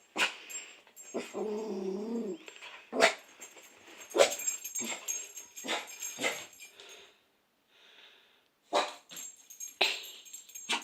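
A dog barking in a string of short, sharp barks, with a longer drawn-out pitched call about a second in and a brief pause around eight seconds in.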